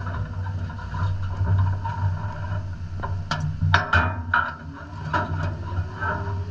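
Knocks and rattles, most of them packed between about three and five and a half seconds in, from handling around the race car and its camera mount, over a steady low rumble.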